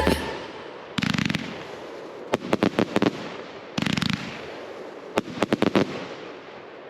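Fireworks going off in groups: two quick rapid-fire crackles and two runs of several separate sharp bangs, each about a second long and spaced a second or two apart.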